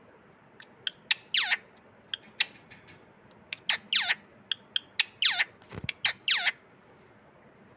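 Parrot calling: about four short screeches, each sliding steeply down in pitch, with sharp clicks scattered between them and a dull thump shortly before the last screech.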